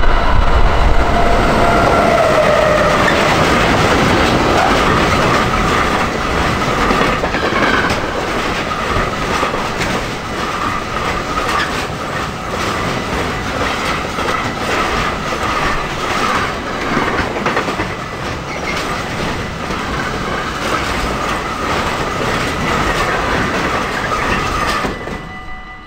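Freight train of container wagons rolling past at close range, its wheels clattering steadily over the rails. A tone falls in pitch in the first few seconds as the electric locomotive goes by. A level-crossing bell rings through it, and the train noise drops away abruptly near the end.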